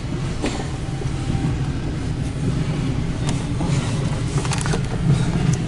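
Freight train's intermodal container cars rolling past: a steady low rumble of steel wheels on the rails, with scattered sharp clicks and clanks, a cluster of them near the end.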